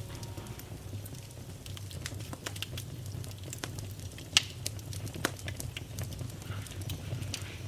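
Bonfire crackling: scattered sharp pops and snaps over a steady low rumble of burning wood, with one loudest pop a little after four seconds in.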